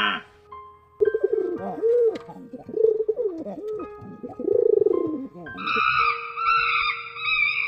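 Pigeon cooing, a run of low rolling coos repeated for about five seconds. Near the end, higher-pitched chattering animal calls take over.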